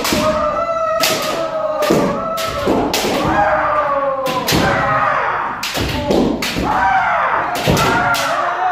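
Kendo free sparring: many sharp cracks and thuds of bamboo shinai striking armour and feet stamping on the floor, mixed with drawn-out kiai shouts from several fencers.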